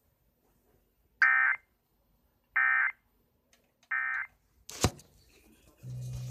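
Weather radio sounding the end-of-message data code after a National Weather Service severe thunderstorm warning: three short buzzy bursts about a second and a half apart, marking the end of the broadcast alert. A sharp click follows, then a steady low hum near the end.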